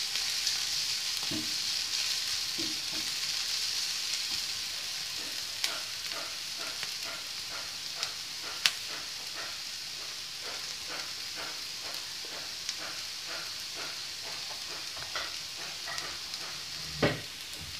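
Sliced onions and green chillies sizzling in oil in a non-stick frying pan as they sauté and soften, stirred with a wooden spatula at first. From about six seconds in, small pops and crackles come thick and fast through the steady sizzle, and a dull knock sounds near the end.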